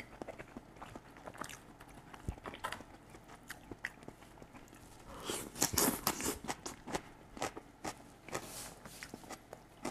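A person chewing a mouthful of stir-fried tofu and bean sprouts, soft crunching with many small clicks, loudest about five to six and a half seconds in. Chopsticks tap and scrape in the frying pan between bites.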